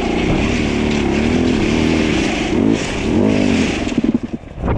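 Dirt bike engine running under way, its pitch rising and falling repeatedly as the throttle is worked, over a steady rushing hiss. About four seconds in the sound drops and chops as the throttle comes off.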